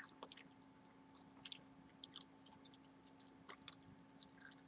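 Gum being chewed close to the microphone: faint, scattered wet mouth smacks and clicks.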